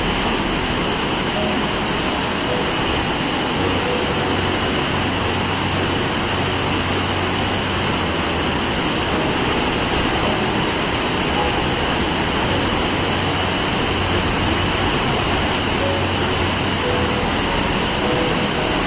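A waterfall's steady rush of falling water: an even, loud noise with no breaks.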